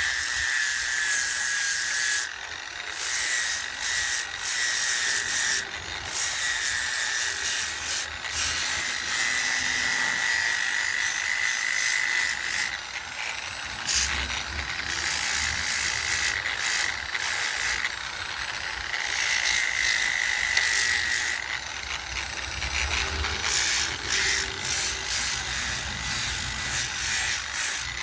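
Small electric rotary power tool carving wood: a high motor whine that wavers and dips as the cutter bites, with rasping grinding that comes and goes in short passes.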